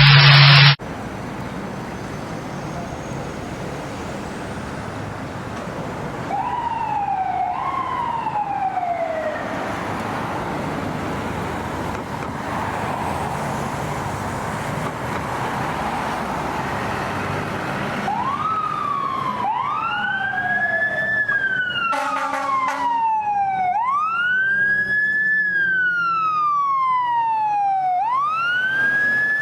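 Fire truck siren wailing over steady traffic noise, faint at first and louder from about two-thirds of the way in as the apparatus draw near. Each cycle rises quickly and falls slowly. A short loud blast sounds partway through the louder part, and a loud buzzing tone cuts off within the first second.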